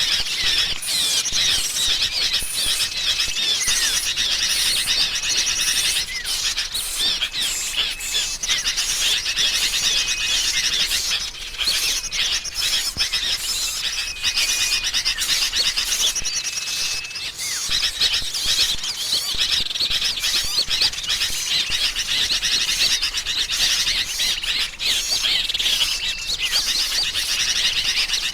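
A dense chorus of small songbirds chirping and twittering all at once, led by the agitated chatter of sooty-headed bulbuls, with short level whistles recurring every few seconds. It is a bird-trapping lure recording of noisy bulbuls mixed with small-bird calls, meant to draw small birds in.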